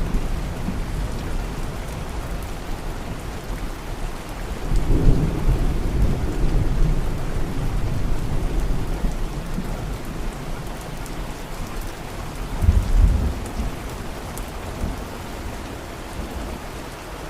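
Steady rain with low rolls of thunder, one swelling about five seconds in and a shorter, sharper one about thirteen seconds in.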